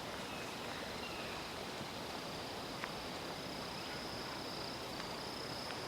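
Quiet outdoor ambience with a steady high-pitched insect buzz, and a single faint click about three seconds in.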